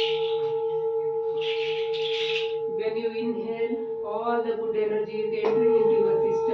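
Singing bowl ringing with a steady, sustained tone, with a shaker rattling briefly between about one and a half and two and a half seconds in. From about halfway a voice chants over the bowl, and the bowl is struck again about five and a half seconds in.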